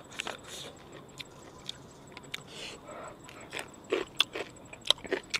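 A person eating close to the microphone: scattered wet clicks and crunches of chewing a shellfish and string-bean salad with raw leaves, with a run of louder crunches near the end.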